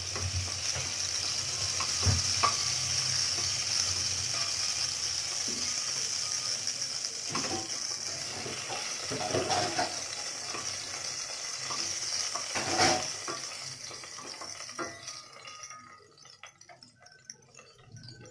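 Pointed gourd (potol) pieces sizzling as they fry in oil in a stainless steel pot, with a spatula and tongs knocking and scraping against the pot as the pieces are turned and lifted out. The sizzle dies away about three seconds before the end.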